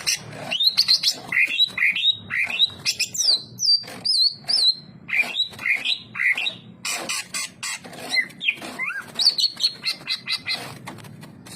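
A cucak ijo (green leafbird) in full song: a fast, varied run of chirps, whistled up- and down-sliding notes and trills, with barely a pause.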